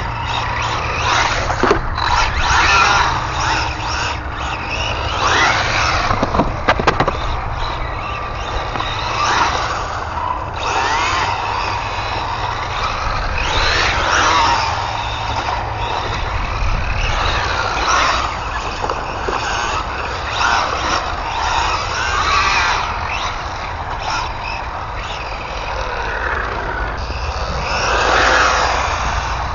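Radio-controlled ARRMA Infraction 3S car's brushless electric motor whining up and down in pitch as the car repeatedly accelerates and slows, with tyres scrubbing on the surface. A few sharp clicks come about seven seconds in.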